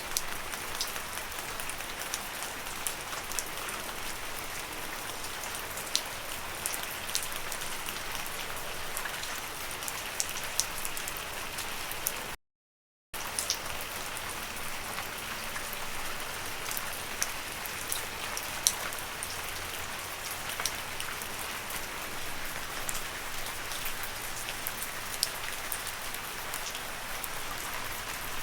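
Steady rain falling on leaves, with many separate drop ticks over a continuous hiss. Near the middle the sound cuts out completely for about half a second.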